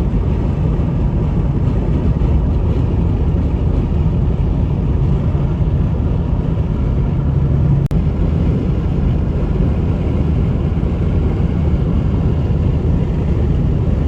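Steady road and engine noise inside a car cruising at highway speed, mostly a low rumble.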